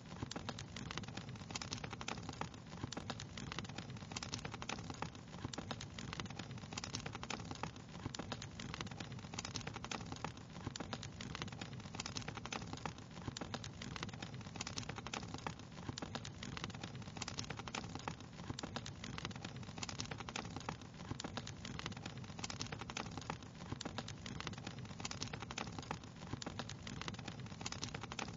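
Crackling fire: dense, irregular pops and snaps over a steady low rumble of burning, with no let-up.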